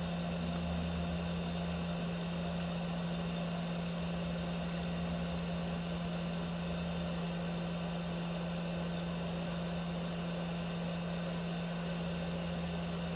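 Steady electrical hum with an even, fan-like whir from the electronics bench equipment, unchanging throughout.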